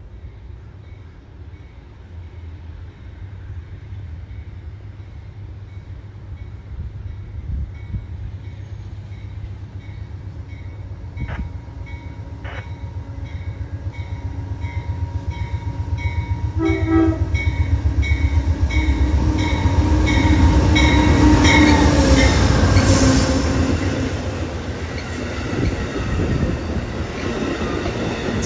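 Amtrak Carolinian passenger train approaching and passing, its rumble and the rhythm of its wheels on the rails growing louder. About halfway through the horn sounds for several seconds as the train comes closest.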